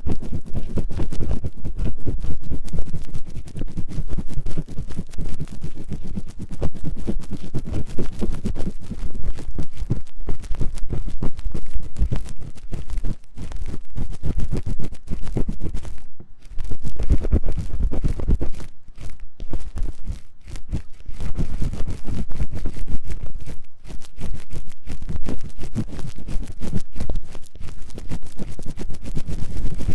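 Fast, vigorous ear-cleaning scratching right on a 3Dio binaural microphone's ear: dense, rapid strokes that pause briefly a few times.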